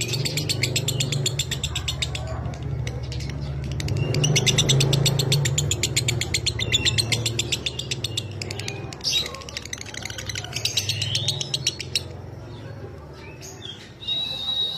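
Lovebird ngekek: long runs of very rapid, high-pitched chattering trills, in three stretches of a few seconds each with short gaps between, over a steady low hum.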